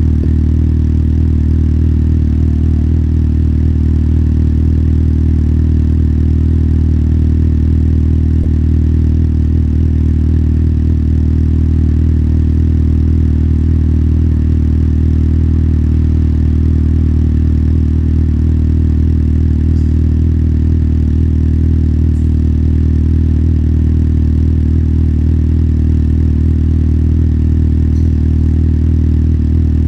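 Motorcycle engine running at one steady, unchanging pitch, with no change in revs.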